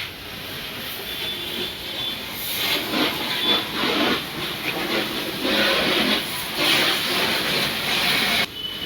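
High-pressure washer jet spraying onto the car with an uneven hiss that swells and fades, then cutting off abruptly near the end as the spray stops.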